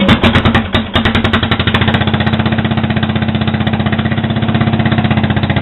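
Sears Suburban SS12 garden tractor's single-cylinder engine, run without a muffler, cranking and sputtering on a cold start. A few uneven strikes in the first second give way to a fast, steady rapping. It is running on little more than fuel fumes and does not quite catch.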